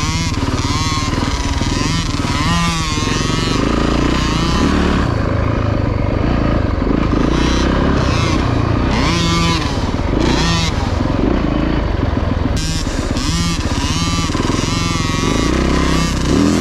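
Dirt bike engine being ridden hard on a motocross track, its pitch rising and falling over and over as the throttle is opened and closed through the turns and gears.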